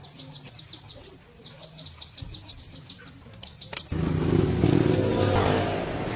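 Rapid high-pitched chirping, about eight short pips a second in three short runs. About four seconds in, a much louder machine noise with a low rumble starts abruptly, like an engine running.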